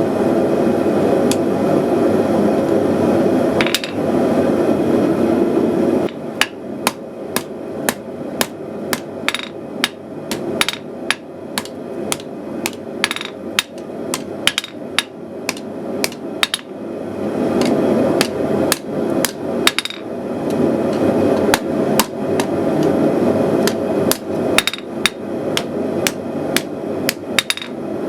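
Blacksmith's hammer striking hot 3/8" steel on an anvil in quick runs of blows, about three a second, over the steady roar of a gas forge burner. The forge roar is loudest for the first six seconds and again briefly in the middle, with only a few blows there.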